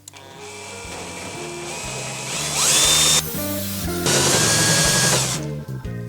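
Electric drill with a hole saw cutting into sheet steel, run in two bursts with a rising whine as it speeds up, the second starting about four seconds in. Background music plays underneath.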